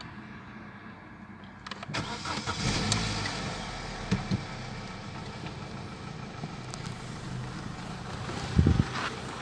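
Opel Astra H 1.4 Twinport four-cylinder petrol engine cold-started: the starter cranks about two seconds in, the engine catches and settles into a fast cold idle. The engine's timing chain was due for replacement. A short thump comes near the end.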